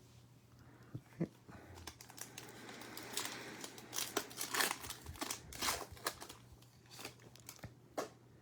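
Trading-card pack wrapper being torn open and crinkled while cards are handled, an irregular run of crackles and sharp clicks starting about a second in.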